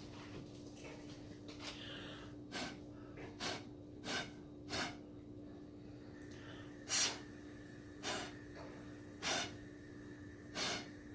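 Short, light puffs of breath blown through a large drinking straw onto wet pour paint, about eight in all, roughly a second apart from about two and a half seconds in. A steady low hum runs underneath.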